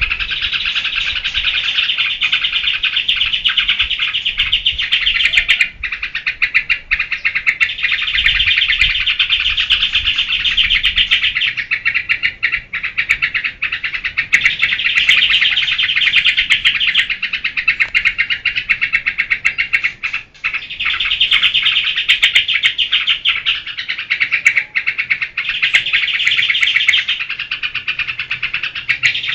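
Yellow-vented bulbul (trucukan) singing loudly in rapid, chattering phrases a few seconds long, one after another with brief gaps. This is the excited, full-volume 'geberan' song.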